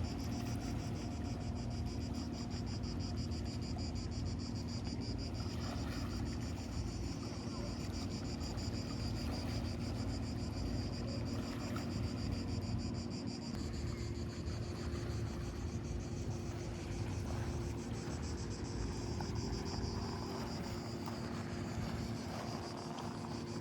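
Insects chirring in a fast, even pulsing buzz, strongest in the first half and fading after about 13 seconds. Underneath are a low steady hum and wind rumble.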